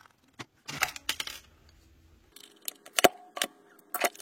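Hair dryer's plastic housing being taken apart by hand: scattered sharp clicks and short scraping sounds, the loudest clicks about three and four seconds in.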